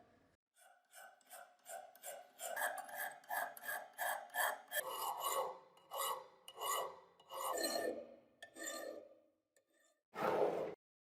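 Hand-worked abrasive strokes rasping back and forth on a metal part of a rusty antique ice crusher, about three strokes a second at first, then slower and longer. A short, louder scrape comes near the end.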